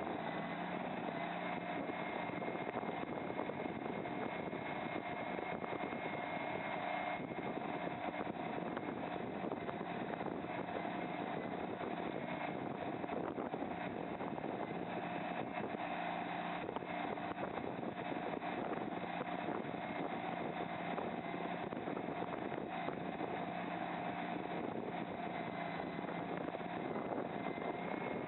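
Hysoon HY380 mini skid steer loader running steadily under power, its engine sound carrying a constant high whine with no change in speed.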